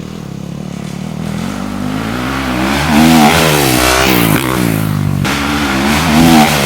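Dirt bike engine revving, growing steadily louder as it approaches, its pitch rising and falling with the throttle.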